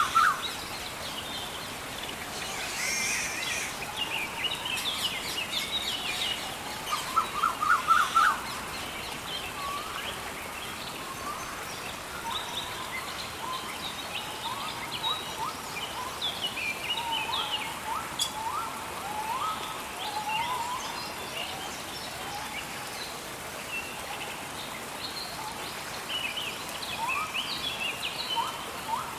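Rainforest birds calling and chirping over a steady hiss of rain. Many short rising notes come scattered throughout, and the loudest is a quick run of rising chirps about seven seconds in.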